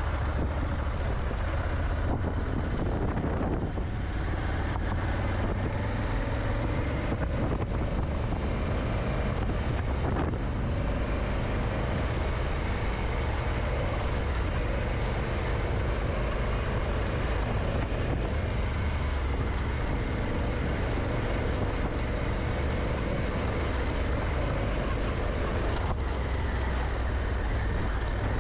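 Honda Africa Twin's twin-cylinder engine running steadily while the motorcycle rides along a dirt track, with low wind rumble on the microphone.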